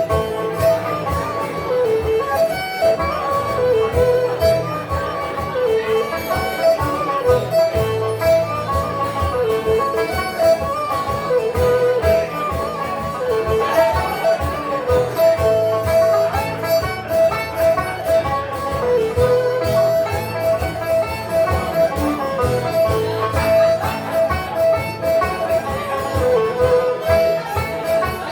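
Live acoustic folk music: strummed 12-string guitar and banjo with a melody line carried over a steady held note, played without singing.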